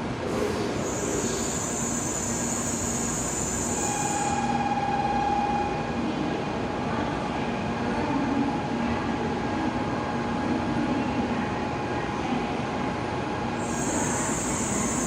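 Tokaido Shinkansen train running on the line, heard as a steady rumble of wheels and rushing air. Thin, steady whining tones ride over it, and a high hiss shows up in the first few seconds and again near the end.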